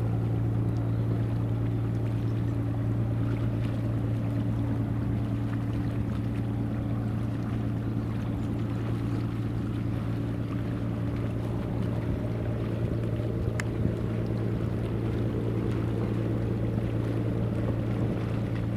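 Steady low drone of a boat or ship engine, with wind and water noise over it and a brief click about two thirds of the way through.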